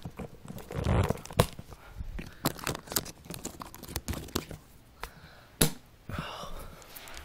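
Handling noises from a pair of motocross boots and their wrapping: a run of sharp clicks and knocks with crinkling and rustling, with heavier thumps about a second in and again near six seconds.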